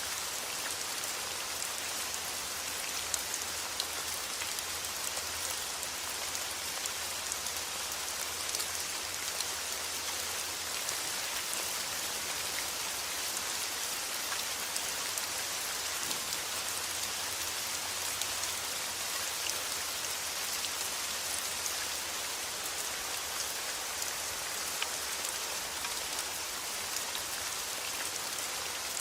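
Steady rain falling, an even hiss dotted with the small ticks of single drops striking a surface.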